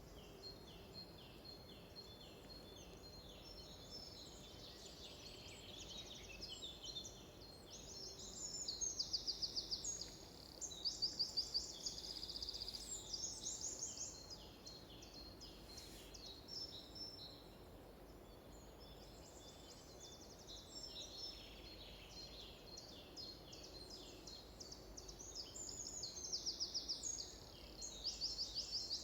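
Several songbirds singing at once, a busy mix of chirps and fast rattling trills. The loudest trills come in short bursts about a third of the way in and again near the end.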